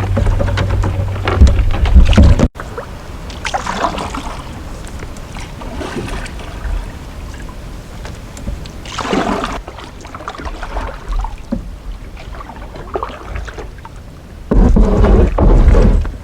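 Canoe paddles dipping and pulling through the water in slow strokes, each stroke a splashy surge a few seconds apart. Wind buffets the microphone at the start and again near the end.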